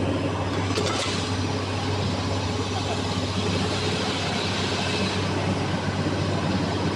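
Steady low machinery hum under a broad, even rushing noise, with a couple of light clicks about a second in.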